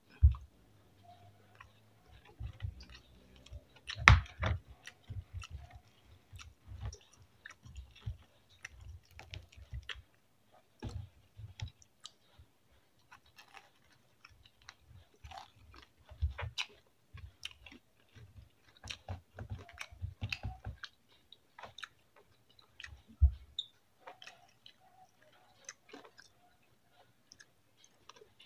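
Close-up chewing and wet mouth sounds of a man eating pancit canton noodles, rice and fried chicken by hand, with scattered small clicks. Two louder thumps stand out, about four seconds in and again after about twenty seconds.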